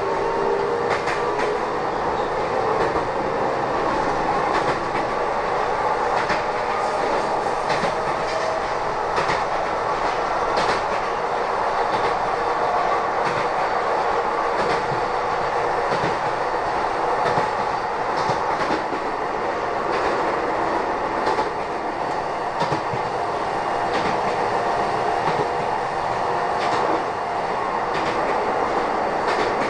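Kobe Electric Railway electric train heard from inside the car while running: a steady rumble with irregular clacks of the wheels over the rail joints. During the first couple of seconds a motor whine rises in pitch as the train gathers speed.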